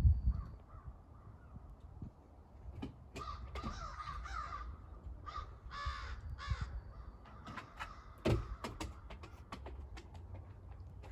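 Crows cawing in two bouts of harsh calls, with scattered clicks and a sharp knock about eight seconds in.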